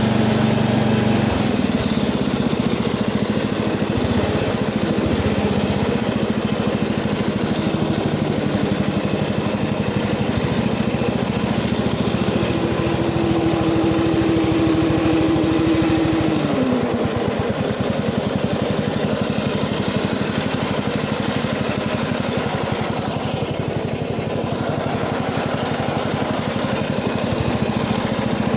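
Cub Cadet 80 garden tractor's single-cylinder Kohler engine running steadily. Its note shifts about a second in, a higher tone joins in the middle and drops away, and the first note returns near the end.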